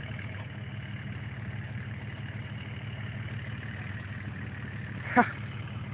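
Cummins diesel truck engine running steadily at light throttle while pulling in a truck pull, with one brief sharp squeak about five seconds in.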